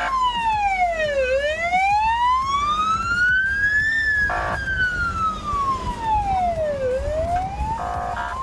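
Emergency vehicle siren wailing: a slow wail that falls, rises and falls again in pitch, each sweep lasting about three seconds. Short bursts of a second, steady tone cut in about four seconds in and again near the end.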